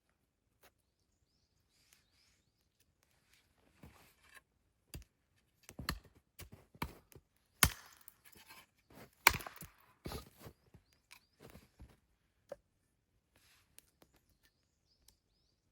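Wood being chopped: a series of sharp, irregularly spaced strikes, densest and loudest about halfway through, then thinning out.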